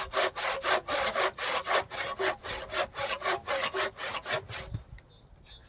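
Hand saw cutting through a 4 by 4 inch timber post, in quick, even back-and-forth strokes, about four or five a second, that stop near the end.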